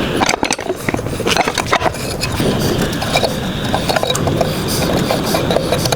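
Blacksmith's shop at work: a steady forge roar under many quick, irregular metallic clinks and taps of tongs and tools on hot steel.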